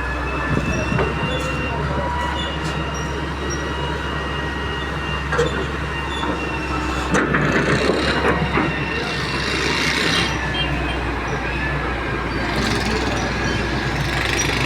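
Heavy excavator running steadily, its diesel engine humming low under a high, steady hydraulic whine. A short burst of metallic clattering and scraping comes a little past halfway, followed by louder surges of working noise.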